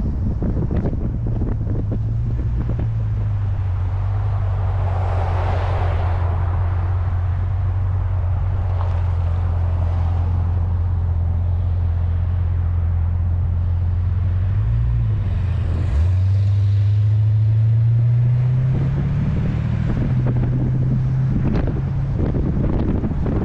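Corvette's small-block 350 V8 running at a steady cruise, with heavy wind noise on the microphone. About fifteen seconds in, the engine note dips briefly, then rises steadily in pitch and gets louder as the car accelerates.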